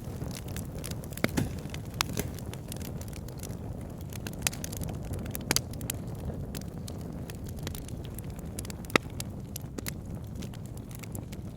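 Wood fire burning in a log burner: a steady low rush of flames with scattered sharp crackles and pops from the burning logs, the loudest pop about nine seconds in.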